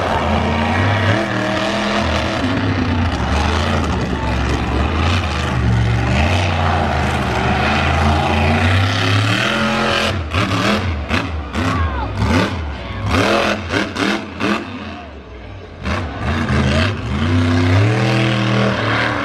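A monster truck's engine revving hard, its pitch stepping up and down with the throttle. About halfway through, the engine goes choppy and on-off with sharp cracks, drops briefly, then revs up again.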